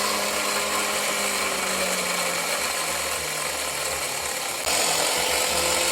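Electric winch on a Jeep running under its remote control, its motor and gears whining steadily as it winds the cable quickly. The whine dips slightly in pitch about two seconds in, and the sound gets louder near the end.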